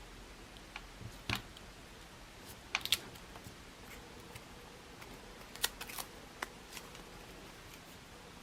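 Paper-crafting work: a few short, sharp clicks and snips from tools and paper being handled. They come about a second in, near three seconds, and in a cluster around six seconds.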